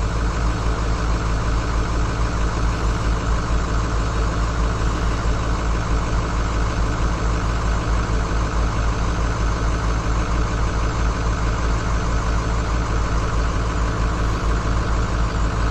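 Diesel engine of a semi truck idling steadily, supplying air to fill another truck's brake system.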